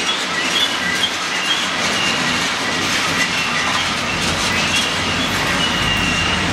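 Freight train hopper cars rolling past, their steel wheels rumbling and clacking on the rails. Short high-pitched squeals come and go, with a longer one near the end, as the wheel flanges grind through the sharp curve.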